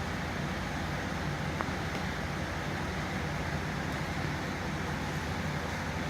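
Steady hum and hiss with no distinct events.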